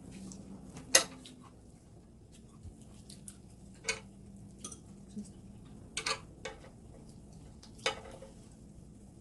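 Eating utensils clicking and clinking against dishes during a meal: a sharp clink about a second in, then a few more scattered through, over a low steady hum.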